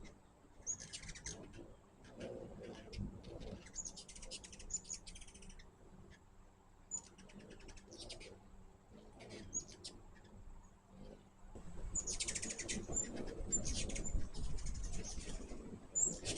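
Hummingbirds chipping: quick runs of sharp, high chip notes in clusters every second or so. A low rumble comes up about twelve seconds in and lasts to the end.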